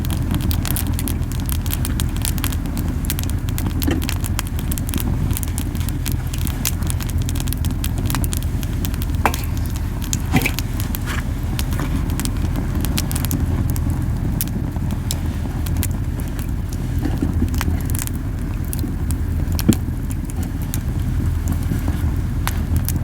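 Camellia wood campfire burning hot: a steady low puffing rumble of strong flames, the fire burning too fiercely, over frequent sharp crackles and pops of the burning wood, a few of them louder.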